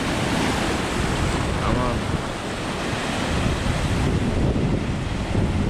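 Strong wind buffeting the microphone over the steady wash of rough surf breaking on the beach.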